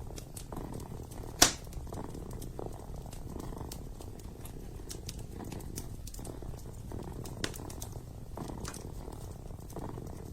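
Kitten purring steadily, the purr swelling and easing with each breath, over the crackle of a wood fire with a sharp pop about a second and a half in.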